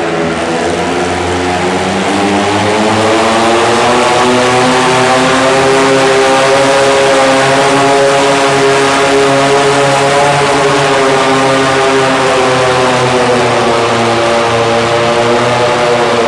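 Antique tractor engine running hard under load during a pull, its pitch rising over the first few seconds, then holding steady and sagging slightly near the end.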